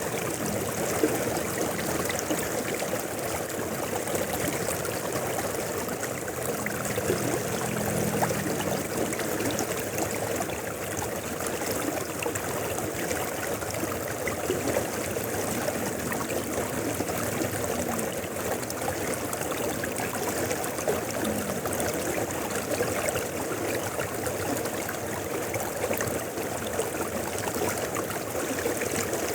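A shallow mountain river flowing steadily over rocks, with a continuous rushing and fine splashing and gurgling texture.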